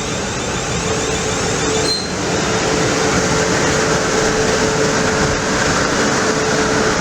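A train passing close by: a loud, steady rush of wheel and track noise with a steady droning tone running through it.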